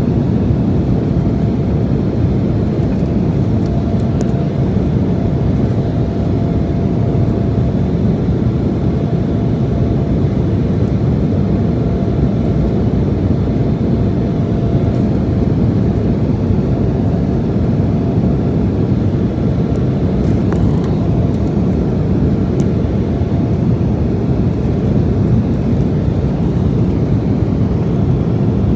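Steady cabin noise of an Embraer E175LR in flight: its CF34-8E5 turbofan engines and the airflow make a constant low rumble, heard from a seat behind the wing. A faint steady whine sits above the rumble.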